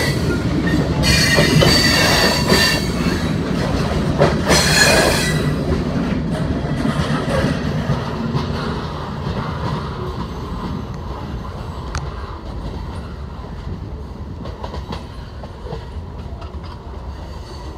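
Freight train of boxcars rolling past, the wheels squealing high-pitched over the first few seconds. After the last car goes by, the sound fades steadily as the train moves away.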